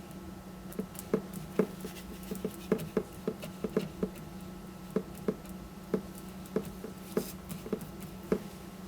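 Paintbrush dabbing and tapping paint onto a stretched canvas: irregular light taps, several a second, over a steady low hum, with a short hiss about seven seconds in.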